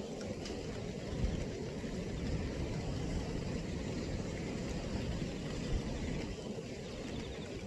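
Strong wind buffeting the microphone, a steady low rumble that flutters irregularly.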